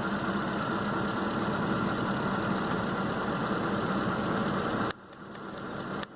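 Ford 5.4-litre V8 idling steadily, with a misfire the mechanic traces to a failed coil driver in the engine computer. The engine sound cuts off abruptly about five seconds in, leaving a quieter background with a couple of sharp clicks.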